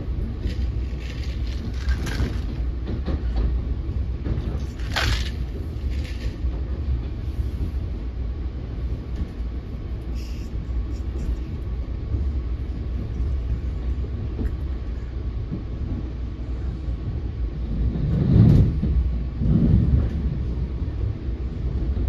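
An NJ Transit Multilevel passenger coach running on the rails, heard from inside the car: a steady low rumble of wheels and body, with a couple of brief sharper noises about two and five seconds in and louder bumps near the end.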